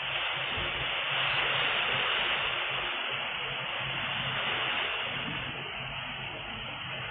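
Heavy rain with strong wind: a steady rushing hiss that swells about a second in and eases slightly toward the end, heard through a CCTV camera's narrow-band microphone with a faint low hum beneath.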